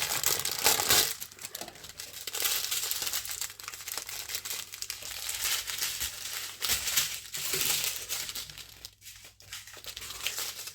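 Small plastic packets of diamond painting drills crinkling and rustling as they are handled, with many small clicks and crackles, easing off near the end.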